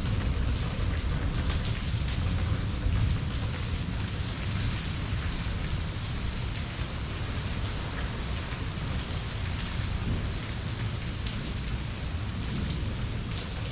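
Rain falling steadily on hard surfaces, with a low rumble of distant thunder underneath that is loudest in the first three seconds and then eases.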